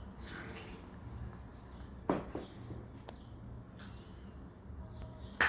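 Shiba Inu dog biting and crunching a raw carrot: a few sharp, short crunches about two seconds in, then a louder one near the end.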